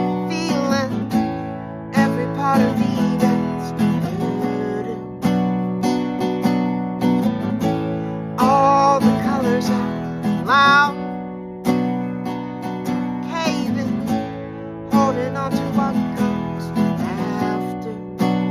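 Folk song on strummed acoustic guitar, with a singing voice over the chords, strongest about halfway through.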